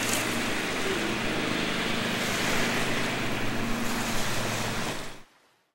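Steady outdoor background noise, an even hiss with a faint low hum under it, fading to silence about five seconds in.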